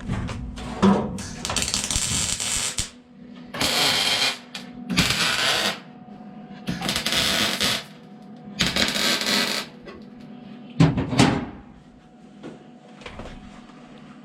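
Welder laying a series of short, roughly one-second bursts of crackling weld, five in a row, stitching a sheet-metal patch into a rusted steel Jeep CJ5 windshield frame. Two short knocks, one near the start and one after the last weld.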